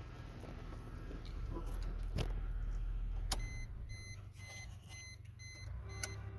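Suzuki SX4's 1.6 M16A four-cylinder engine idling low. About halfway through there is a click and the level drops, and the car's warning chime then beeps about twice a second, six times.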